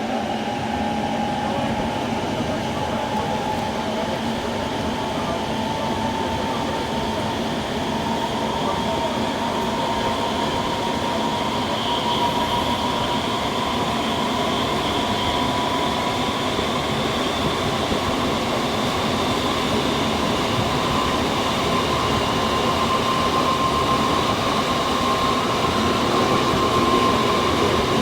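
Senboku 5000 series electric train running, heard from inside the car: steady wheel and running noise under a whine from the Hitachi SiC VVVF inverter drive that climbs slowly in pitch as the train gathers speed.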